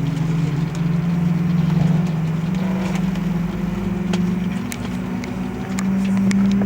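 Airbus A330-300 with General Electric CF6 engines during engine startup: a steady low hum whose tones creep slowly upward in pitch, with a few light clicks.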